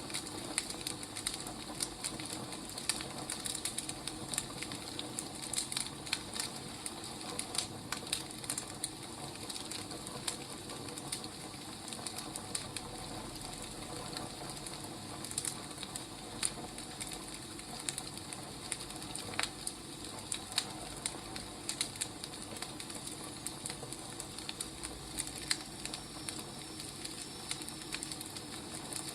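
Wood fire burning: irregular crackles and pops over a steady soft hiss.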